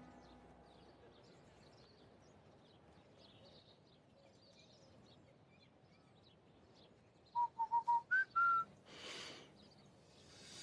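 Faint bird chirps over a quiet background. About seven seconds in comes a short run of loud, clear whistled notes: four quick notes at one pitch, then two higher ones. A brief rush of noise follows them.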